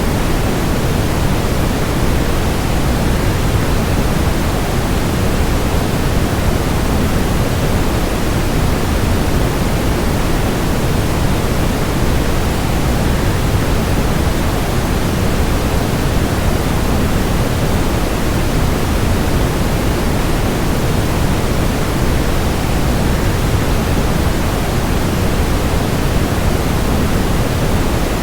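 Steady, unchanging rushing noise of a waterfall blended with white noise, deep and even with no breaks.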